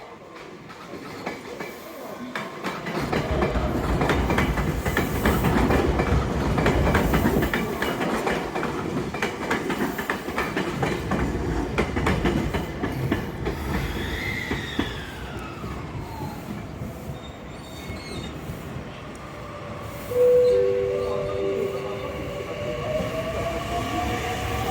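JR Central 315 series electric train running on the rails with a clatter of wheels over rail joints, a falling whine past the middle, then near the end a sudden short two-note tone followed by the rising whine of the traction motors as a train pulls away.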